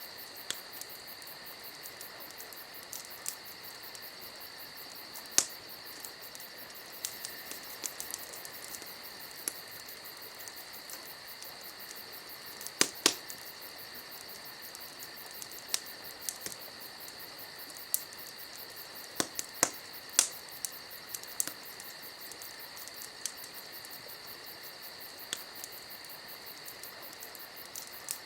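Wood fire crackling: irregular sharp pops and snaps over a steady high hiss.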